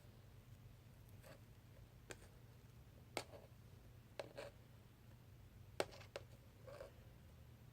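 Two-layer pink clear slime being handled, making faint scattered pops and clicks, about seven over several seconds, over a low steady hum.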